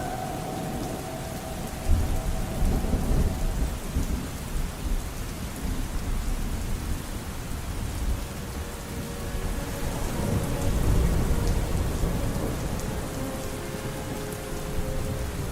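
Steady heavy rain, with thunder rumbling in suddenly about two seconds in and rolling again in the second half. Faint held notes of distant music sound under the rain near the end.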